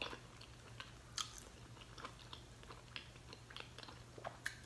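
Fried chicken being eaten close to the microphone: faint chewing and mouth smacking with scattered crisp crackles and clicks as the crust is bitten and pulled apart by hand, the sharpest clicks right at the start and about a second in.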